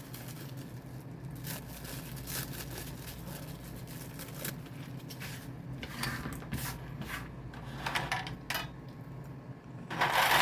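A small metal hanging chain being unwrapped and handled: light rubbing and scattered small clicks, with a few louder metallic clinks of the links a little past the middle.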